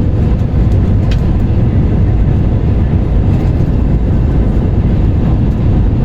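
Steady low rumble of jet engines and rushing air inside an airliner cabin, with one faint click about a second in.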